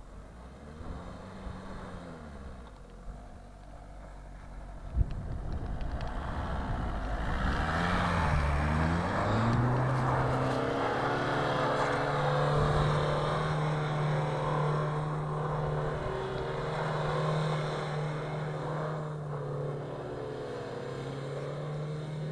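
Audi A4 quattro's engine, low and fairly quiet at first, revving up about seven seconds in and then held at steady high revs for over ten seconds while the car spins donuts on packed snow. A single sharp knock sounds about five seconds in.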